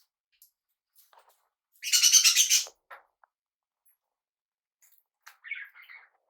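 Pet parrot calls: one loud, harsh, buzzy call lasting under a second about two seconds in, then a few softer chirps near the end.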